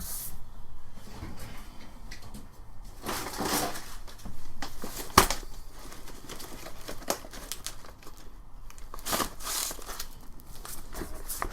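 Sandpaper rustling and scraping in irregular strokes, with a sharp click about five seconds in.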